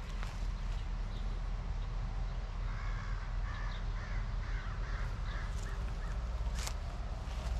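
A bird calling in a quick run of about six short calls, starting a few seconds in. Underneath are a low rumble and a few sharp knocks from footsteps, one of them near the end.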